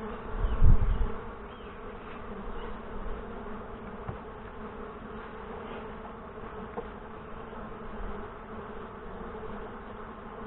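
Honey bees buzzing steadily in large numbers around an open hive, with one short, loud low thud about half a second in.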